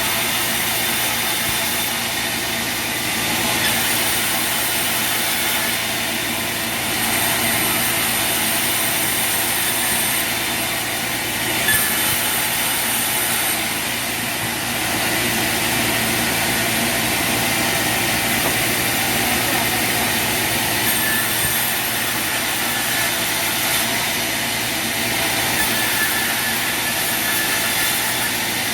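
Sawmill machinery running: a steady, dense mechanical noise with no clear breaks.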